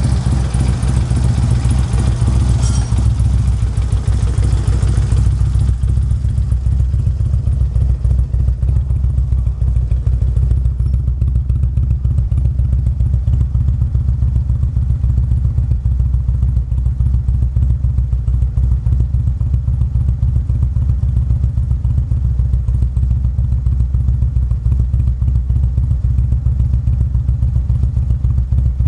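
2011 Harley-Davidson CVO Street Glide's Twin Cam 110 V-twin idling steadily through an aftermarket Vance & Hines exhaust. There is a deep, even pulse with no revving, and a brighter rasp in the first few seconds that then settles.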